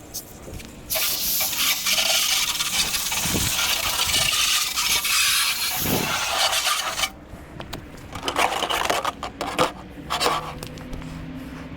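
Harsh rubbing and scraping noise, steady and loud for about six seconds and then breaking into short separate scrapes.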